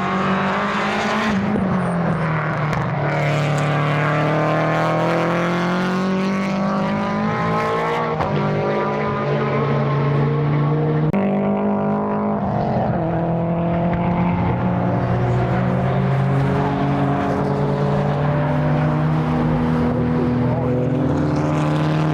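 Race car engine running hard on the circuit, its note holding steady for seconds at a time and stepping in pitch several times as it changes gear.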